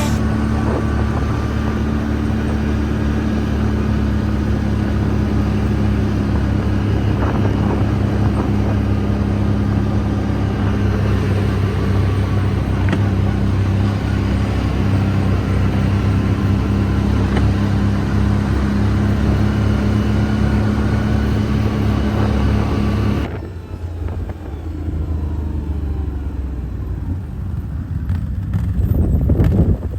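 Off-road vehicle engine running steadily while riding. About 23 seconds in there is an abrupt switch to a quieter, lower engine sound.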